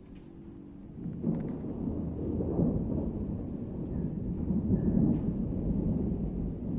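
Thunder rumbling: after a quiet first second it breaks in and rolls on as a deep, swelling rumble, loudest around the middle.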